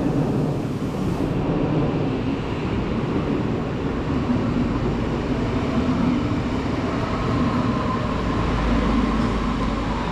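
A train running on rails, a steady rumble of wheels and running gear. A faint steady whine comes in near the end.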